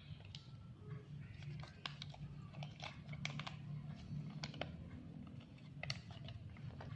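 Small plastic clicks and light handling noises, irregular, over a low steady hum: toy pieces being fitted together.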